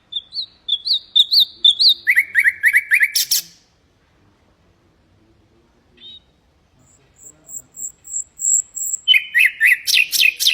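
Common nightingale singing: two phrases of quickly repeated notes, each ending in a harsh rattle. The second phrase opens with a long, thin high whistle.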